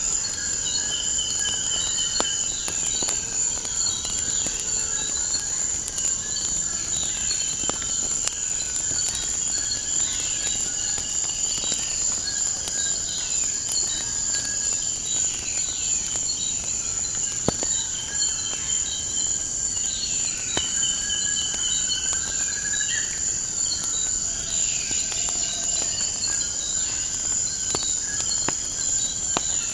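Crickets chirring in a continuous high trill, with birds calling in short falling chirps and brief whistled notes, and a fire crackling in scattered sharp clicks.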